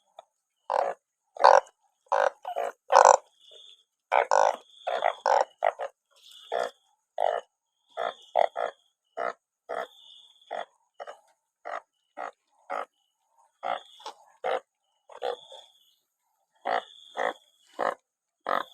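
A chorus of burrowing frogs (banded bullfrogs and their kin) calling. Short, loud croaks overlap irregularly, about one or two a second, with a thin high trill sounding between them now and then.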